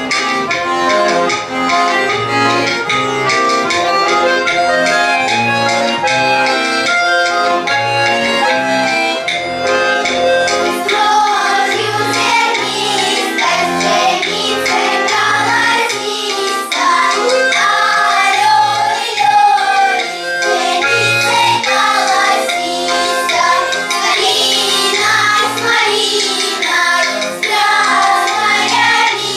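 Accordion playing an oom-pah accompaniment, alternating bass notes and chords, with a children's choir coming in singing about ten seconds in.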